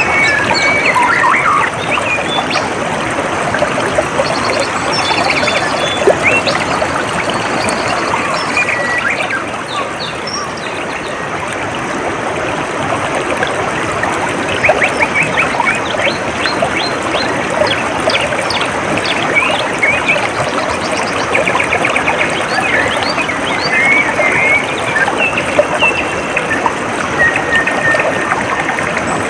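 Water trickling and running steadily, with small birds chirping and trilling over it in short, quick bursts.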